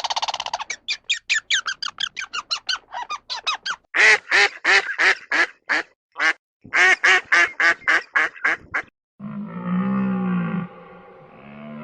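Ducks quacking in a rapid run of short calls. Near the end it gives way to a lower, drawn-out animal call, and a second one begins just before the end.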